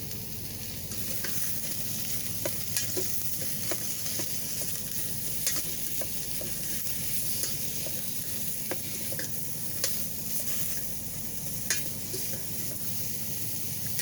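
Sliced zucchini and squash sizzling steadily as they fry in hot olive oil, with scattered small pops and clicks.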